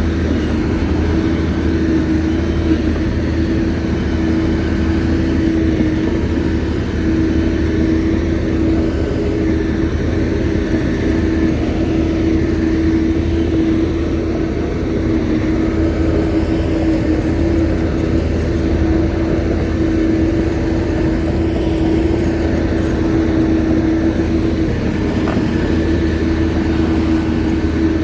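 Shantui crawler bulldozer's diesel engine running steadily, a low drone with a steady whine over it.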